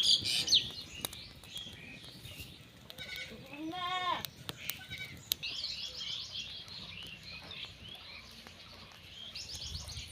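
A goat bleats once, a single wavering call about four seconds in, with high bird chirps repeating around it.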